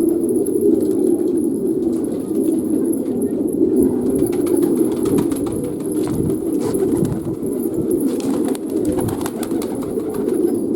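Many fancy domestic pigeons cooing at once, a steady overlapping chorus of low coos with a few faint clicks mixed in.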